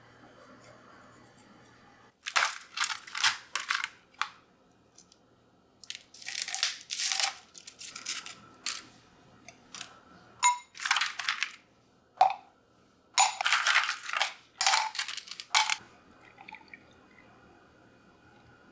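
A run of crisp rustling and rattling handling sounds in bursts, starting about two seconds in and stopping a few seconds before the end.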